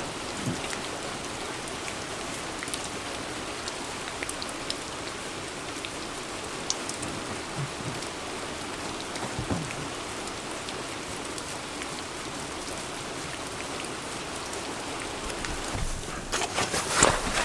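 Steady rain falling, an even hiss with scattered drip ticks. Near the end, a short run of louder sharp clicks and knocks.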